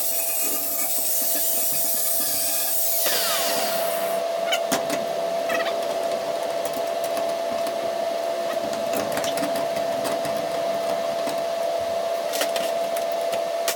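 Handheld electric grinder running with a steady whine while it grinds and sands welded metal seams, with scattered scraping clicks where the disc bites. About three seconds in, a high hiss drops away and a tone slides down into the whine.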